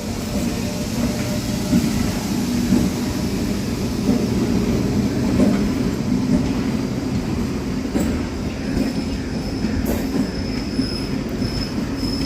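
Electric MEMU multiple-unit train pulling out of the station, its coaches rolling steadily past with a continuous rumble of wheels on rails. A thin high whine joins in the second half.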